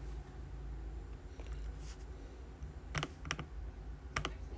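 A few sharp, scattered computer keyboard clicks, two close pairs about a second apart, over a low steady hum.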